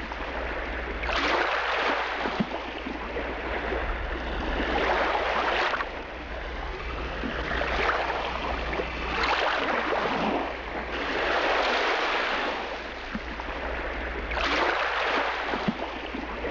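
Small sea waves breaking and washing up a sandy beach, the surf swelling and fading every three to four seconds.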